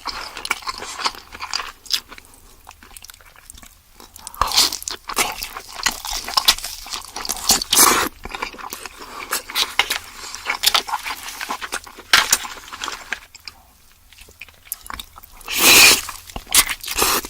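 King crab being eaten close to the microphone: shells cracking and crunching in irregular bites, with chewing in between. A louder, longer crunch comes near the end.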